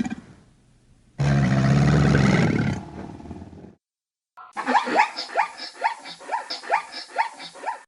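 An animal's loud, deep drawn-out call lasting about two and a half seconds. After a short break comes a different animal's rapid series of short rising calls, about four a second.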